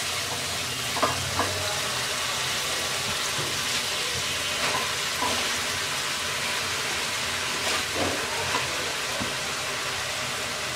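Spice paste sizzling steadily in hot oil in a nonstick kadai, stirred with a wooden spatula that knocks and scrapes against the pan a few times.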